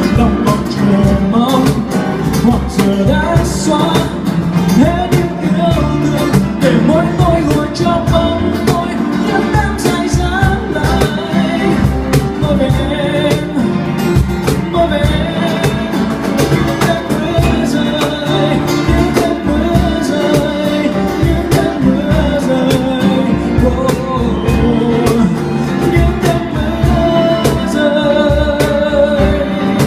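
Live band playing an instrumental passage of a pop ballad: drums keeping a steady beat under bass and a guitar carrying the melody.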